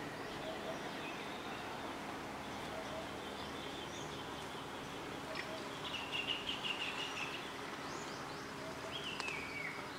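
Birds calling over a steady outdoor background hiss: a chattering trill about six seconds in and a clear whistle that falls in pitch near the end.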